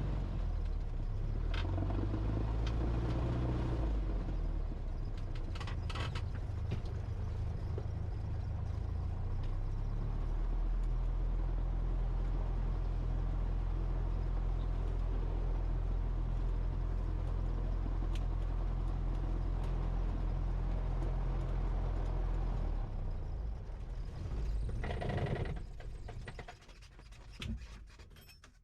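Cessna 172 piston engine running steadily at low power, then winding down and stopping near the end, as at shutdown after a flight.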